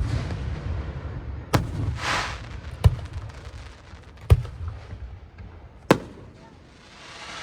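Aerial fireworks shells bursting: four sharp booms about one and a half seconds apart, each trailed by a low rolling rumble, with a brief hissing crackle about two seconds in.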